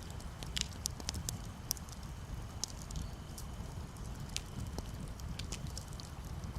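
Campfire crackling, with sharp pops and snaps scattered irregularly over a steady low rumble.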